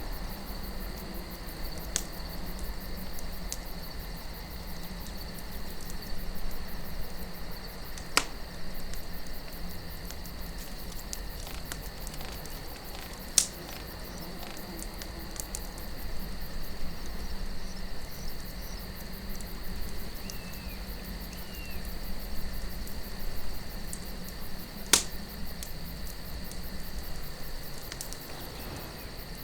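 Campfire of burning wood crackling, with a few sharp pops, two of them standing out midway and near the end, over a low steady wind. Crickets chirp steadily throughout.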